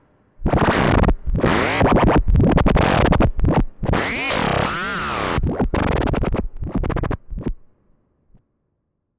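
Electronic synthesizer patch from a Make Noise 0-Coast and Korg NTS-1 setup playing choppy, stuttering noise bursts with swooping pitch sweeps, sounding like turntable scratching. It cuts off about seven and a half seconds in.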